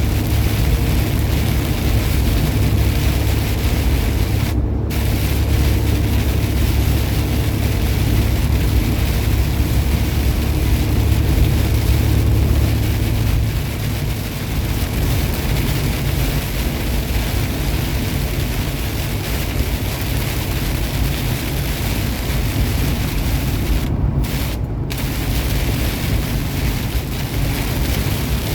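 Steady noise inside a truck cab at highway speed in the rain: engine rumble and tyre and wind hiss from the wet road. The low rumble eases a little about halfway through.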